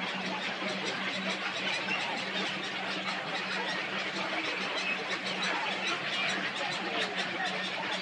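A dense chorus of many birds calling and chattering at once, steady throughout, over a constant low hum.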